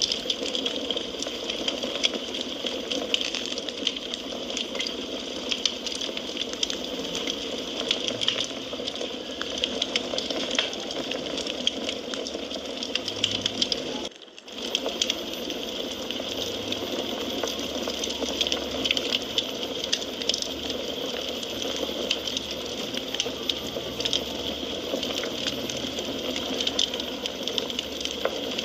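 Wood fire crackling steadily, with many small pops and snaps over a soft hiss. The sound dips out for a split second about halfway through.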